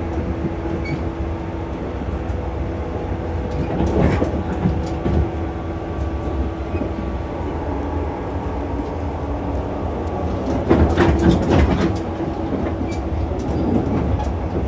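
Running sound heard inside a JR West 115 series resistor-controlled electric multiple unit under way: a steady low rumble and hum from the running gear. The wheels clack over rail joints about four seconds in and again around eleven seconds in.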